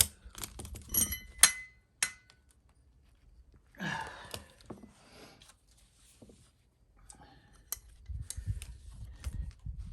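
Metal tools and hardware being handled: a few sharp clinks and knocks in the first two seconds, some ringing briefly, then duller handling knocks and rumble near the end.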